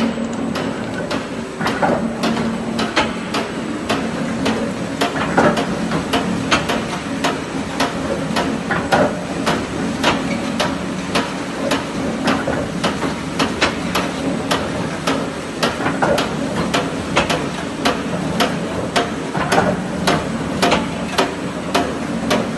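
Glass mosaic machine running, with a steady mechanical hum and regular sharp knocks at about two a second.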